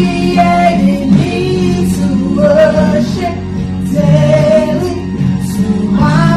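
Gospel song: a woman singing held, gliding melody notes over instrumental backing.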